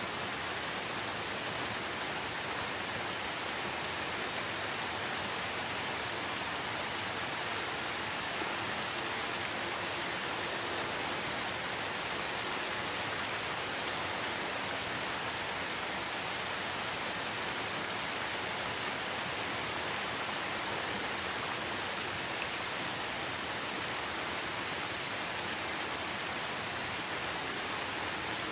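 Steady rainfall, an even hiss of drops falling on leaves and surfaces, with no change in intensity.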